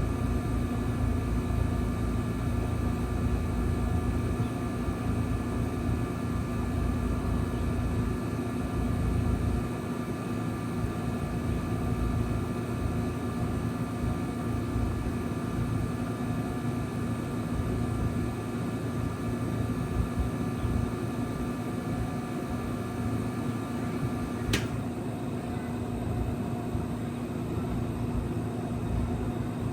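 Trane XL heat pump outdoor unit running in cool mode: a steady hum with a whine of several steady tones over it. About 24 seconds in there is a sharp click and the whine cuts off as the unit is shut down, while a lower hum and rushing air carry on.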